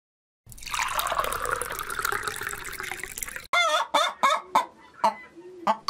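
A liquid sound effect lasting about three seconds, then a hen clucking in a quick series of short clucks from about three and a half seconds in.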